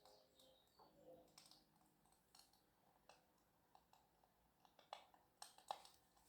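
Near silence with faint, scattered crackles like a wood fire, a few louder ones near the end. Soft held music tones fade out in the first second or so.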